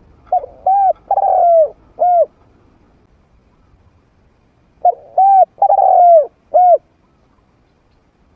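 Trained spotted dove cooing in a medium-pitched voice: two phrases of four arched coos, a couple of seconds apart, the third coo in each the longest and falling in pitch.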